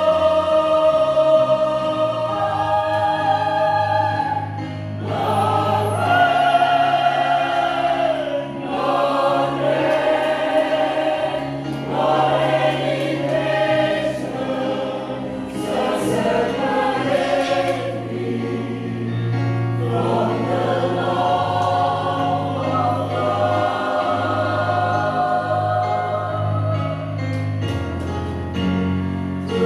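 A church choir singing a slow song in several-part harmony, holding long notes and chords that shift every few seconds over a steady low part.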